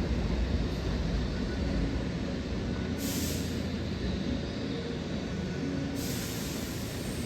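Keihan electric train running through a station, its low rumble slowly fading as it moves off. A short burst of hiss about three seconds in, and another hiss starting near the end.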